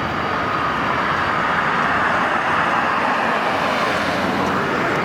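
Steady, even roar of outdoor background noise, like road traffic, with a faint steady whine.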